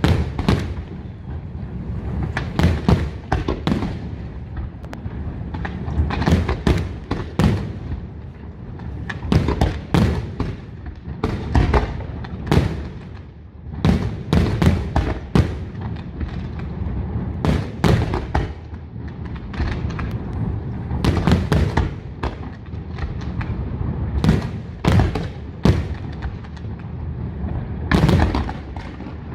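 Aerial fireworks display: a continuous series of shell bursts going off, many sharp bangs and booms, often several in quick succession, over a steady low rumble.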